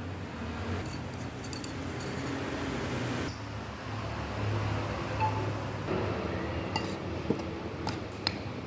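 Light clinks with faint ringing over a steady low hum, a few of them in the second half.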